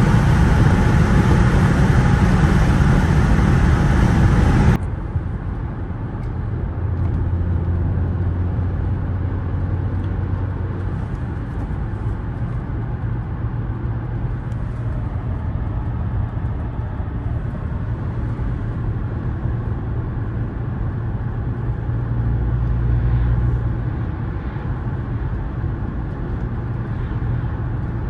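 Audi A4 2.0T's turbocharged four-cylinder engine and road noise while driving. It is loud for the first few seconds, then cuts off suddenly to a quieter, steady low drone of the car cruising.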